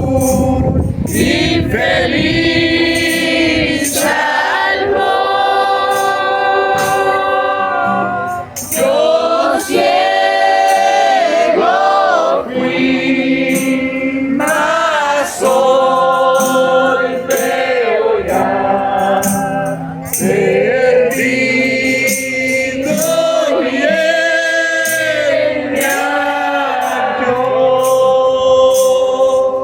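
A congregation singing a Christian hymn together in Spanish, with a tambourine shaken in a steady beat.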